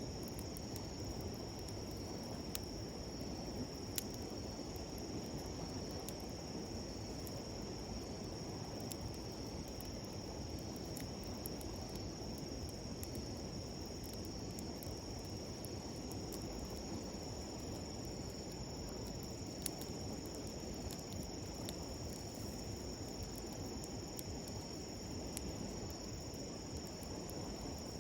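Steady high trilling of insects over the constant low rush of a flowing river, with occasional faint pops and crackles from a wood campfire; a couple of the pops stand out more sharply.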